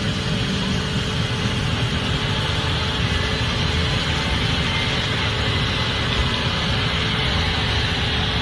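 Case IH Axial-Flow 8250 combine running steadily while harvesting corn, a constant mechanical drone with no change in pitch.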